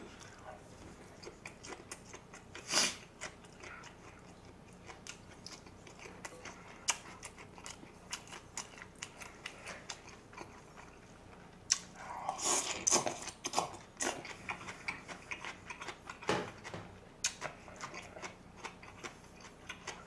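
Close-miked chewing and biting: a mouthful of gimbap and crunchy pickled radish from dongchimi being eaten, with many short wet mouth clicks and a louder burst of crunching about twelve seconds in.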